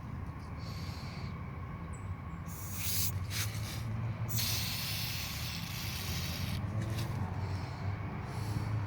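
Aerosol carburetor cleaner sprayed in several short hissing bursts, a longer one about halfway through, onto a gummed-up throttle body being cleaned. A steady low hum runs underneath.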